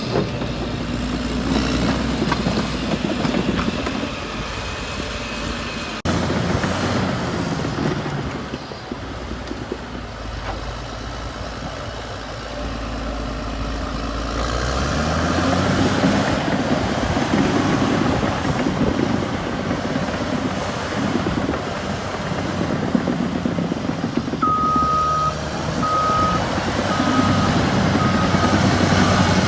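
Caterpillar D6R2 bulldozer's diesel engine running under shifting load while pushing mud and gravel. Near the end a reversing alarm beeps about five times.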